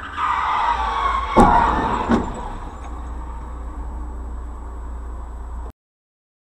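Road crash picked up by a car's dashcam: a squeal falling in pitch and a rush of noise like skidding tyres, then two hard impacts less than a second apart about a second and a half in. Steady road noise follows, then the sound cuts off suddenly near the end.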